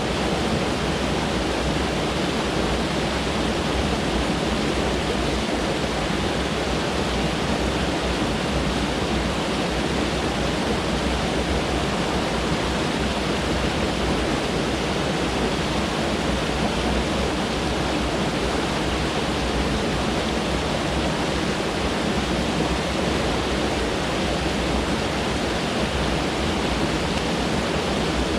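Mountain stream rushing over rocks close by: a steady, unbroken rush of water.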